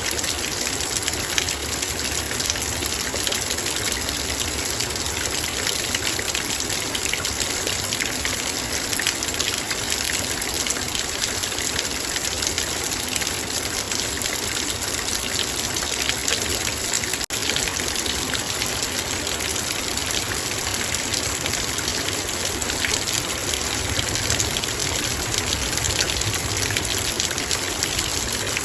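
Heavy rain drumming on a metal bowl: a dense, steady patter of countless small drop impacts, with one split-second gap about two-thirds of the way through.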